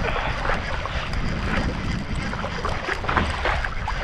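Water splashing and lapping irregularly against a kayak's hull, with wind buffeting the microphone in a low rumble.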